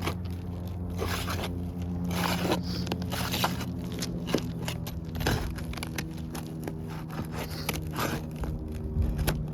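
Asphalt roof shingles being pried up with a metal bar: irregular scrapes and sharp clicks as the nails holding them are worked loose, over a steady low hum.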